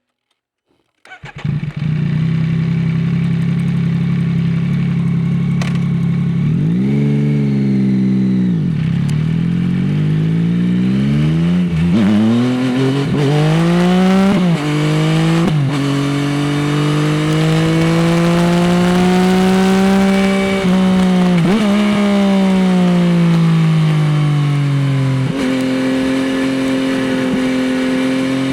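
Yamaha XSR900's three-cylinder engine through an Akrapovič exhaust, starting up about a second in and idling steadily. It then revs and accelerates, its pitch climbing and dropping sharply at several gear changes, falls away, and settles to a steady lower note near the end.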